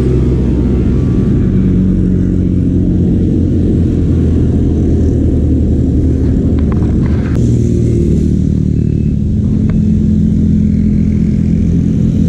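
Loud, steady low rumble of wind buffeting the camera's microphone while riding a bicycle.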